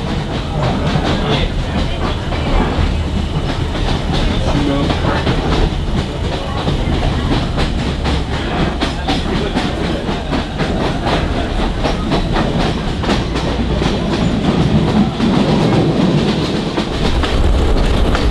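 Sri Lankan passenger train running along the track: a steady rumble of the carriages with a continuous rattle of sharp, irregular clicks. The low rumble grows stronger near the end.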